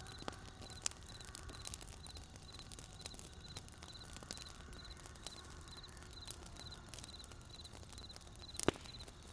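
Wood campfire crackling: scattered sharp pops and snaps over a low rumble, with one louder pop near the end. A short high chirp repeats about twice a second behind it.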